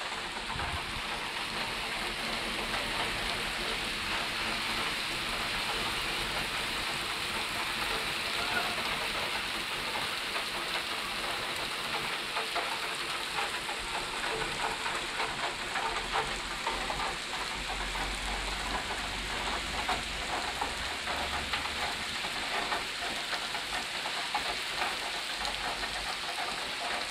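Steady rain of a summer thunderstorm falling on wet pavement and puddles, a constant hiss thick with fine drop ticks.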